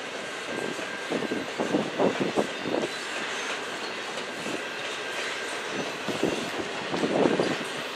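Double-stack container well cars of a freight train rolling past, wheels clacking over the rails in two clusters of knocks a few seconds apart over a steady rolling rumble.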